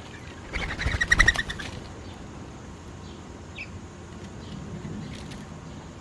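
A bird gives a short, loud call of rapid pulses about half a second in, lasting about a second. A few faint chirps follow.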